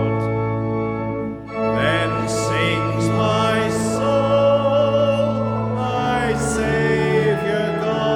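A hymn sung by a group of voices over held organ chords, with a short break between lines about one and a half seconds in.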